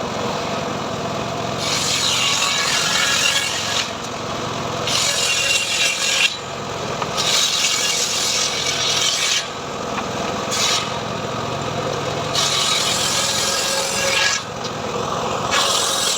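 Large hand ripsaw (gergaji srekel) sawing lengthwise through teak, in slow, even strokes about every two to three seconds, each cutting stroke a long rasping hiss.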